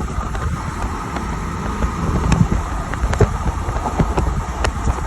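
Car driving across a bridge: steady road and wind noise with scattered light ticks and knocks.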